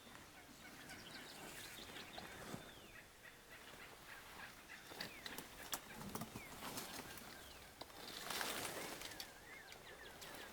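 Merriam's wild turkey gobbling faintly, with many songbirds giving short falling chirps around it.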